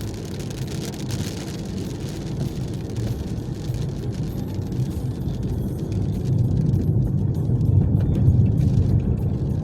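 Car driving on a wet road in heavy rain: a steady low rumble of tyres and engine that grows louder about six seconds in.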